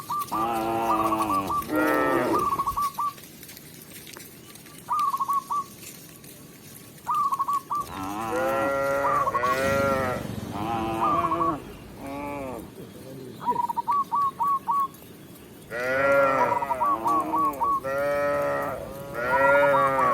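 Cows mooing several times in three bouts, each moo a long call that bends in pitch. Between the moos comes a run of short, quick, high repeated notes.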